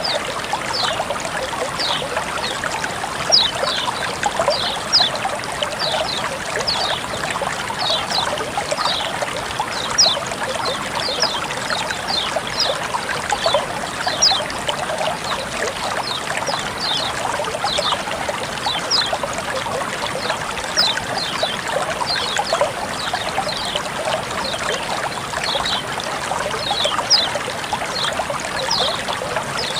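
Water flowing and trickling steadily, with many short, high plinks of splashing droplets over the continuous rush.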